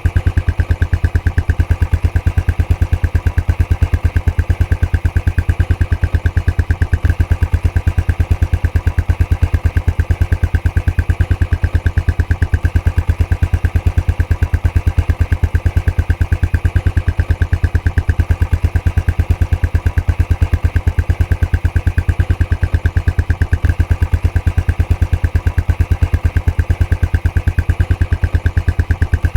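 Royal Enfield Classic 500's air-cooled single-cylinder engine idling through its stock exhaust, with a steady, even beat of exhaust pulses.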